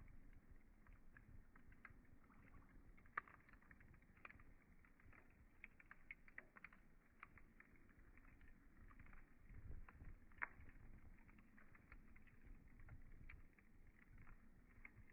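Wood campfire crackling quietly, with irregular small pops and two sharper snaps, about three and ten seconds in, over a low rumble of the burning.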